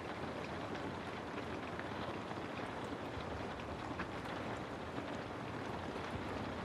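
Steady rain ambience: an even hiss of rainfall with scattered faint drop ticks.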